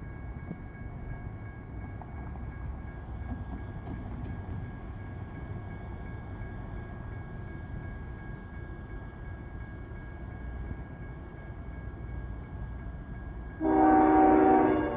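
Low, steady rumble of approaching diesel locomotives, then near the end a loud blast of a diesel locomotive's multi-chime air horn, about a second long.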